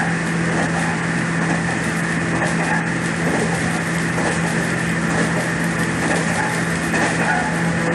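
A steady machine or engine drone, with an even low hum and a fainter high whine over a rushing noise that never changes.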